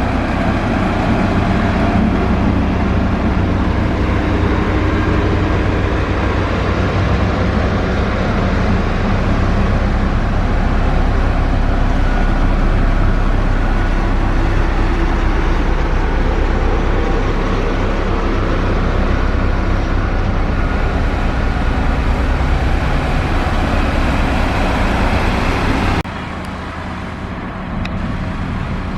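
Diesel engine of heavy road-construction machinery running steadily with a deep drone. The sound drops suddenly to a quieter level near the end.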